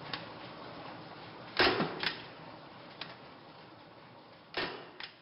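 Faint steady hiss with a few sharp clicks and knocks, two louder ones about a second and a half in and near the end.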